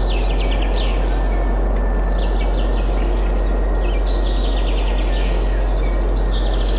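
Small songbirds chirping in quick trilled series, several overlapping, over a steady rush of wind and a constant deep low rumble.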